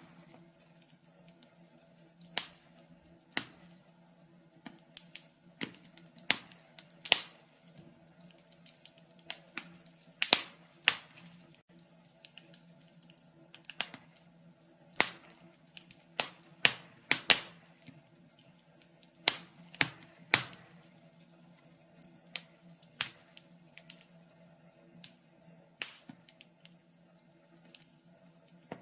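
Logs burning in a fireplace, crackling with irregular sharp pops and snaps, roughly one or two a second, some much louder than others, over a faint steady low hum.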